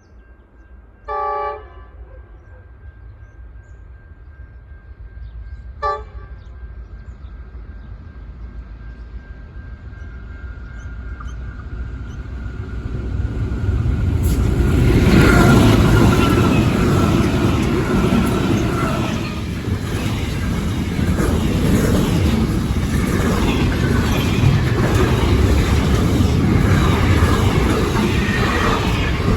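Pacific National NR class diesel-electric locomotives, four in multiple, sound the horn for about a second, then give a short toot, and approach with the engine rumble building to its loudest about fifteen seconds in. The rumble of the intermodal wagons rolling past follows.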